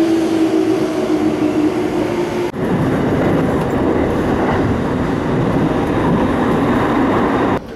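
Train noise in two parts. First a station platform with a train's steady humming tone that drops slightly in pitch. Then, after a sudden cut about two and a half seconds in, the even, loud running rumble heard inside the cab of an electric commuter train, a JR 209 series, moving through a tunnel.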